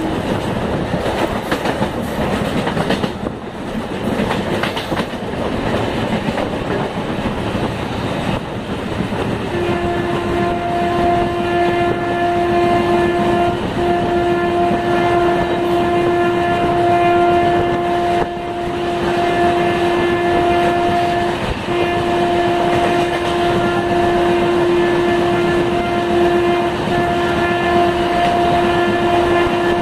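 Rumble and rattle of a passenger train running on the rails, heard from a carriage window. From about ten seconds in, a train horn sounds one long steady note, broken only by a few short gaps, as the train passes through the station.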